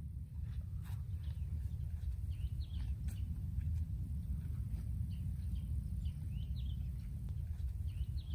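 Small birds chirping in a cypress swamp, short high calls coming every second or two, over a steady low rumble.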